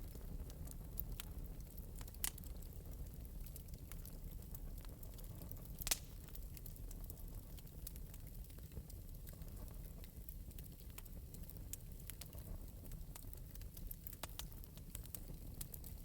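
Wood fire burning in an open metal fireplace: a steady low rumble with scattered light crackles and one louder pop about six seconds in.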